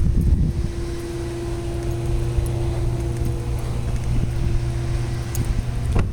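A motor running steadily, a low rumble with a constant hum, and a single sharp knock near the end.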